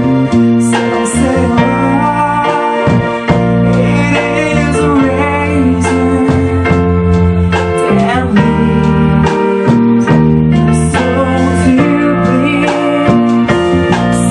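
A band playing a song, keyboard prominent, with a singing voice over it.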